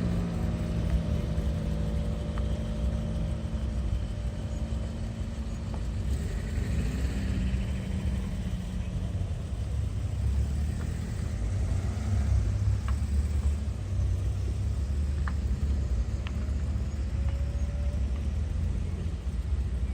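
Steady low rumble of a car engine running. A louder engine note fades away in the first few seconds.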